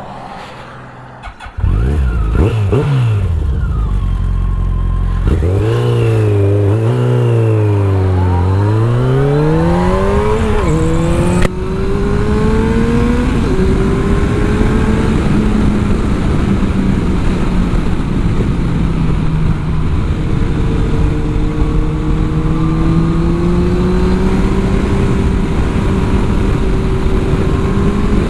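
2003 Yamaha FJR1300's inline-four engine pulling hard under acceleration: it opens up about a second and a half in, its pitch climbs and drops back several times as it goes up through the gears, then it settles into a steady run with the pitch slowly rising.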